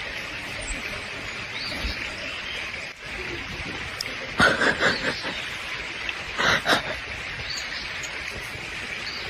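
Outdoor ambience with a steady hiss and occasional short bird chirps. Two brief louder bursts come about four and a half and six and a half seconds in.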